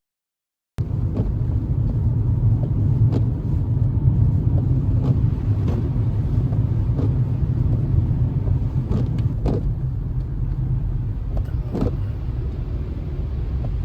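Car driving on a snow-covered road: a steady low rumble of engine and tyres, with a few faint clicks here and there. It starts suddenly about a second in.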